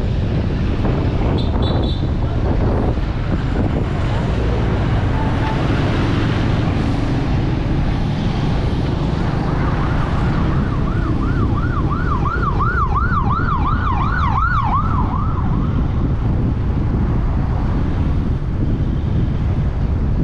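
A siren yelping, a fast rising-and-falling wail about halfway through that lasts around five seconds, over the steady wind and engine noise of a motorcycle on the move.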